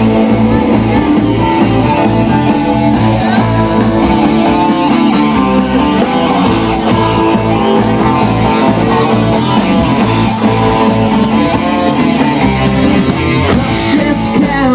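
Loud rock music led by guitar, with bass and drums keeping a steady beat.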